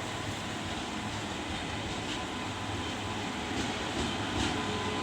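Train pulled by a WAP7 electric locomotive approaching, a steady rumble of wheels on rails growing slowly louder, with a few clicks near the end.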